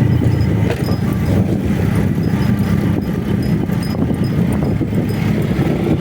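Motorcycle running at a steady pace while riding, a continuous low rumble with road noise.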